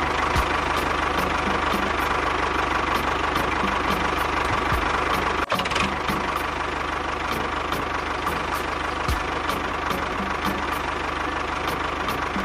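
Engine running steadily at idle with an even knocking beat, about two to three knocks a second, cut off for a moment about halfway through.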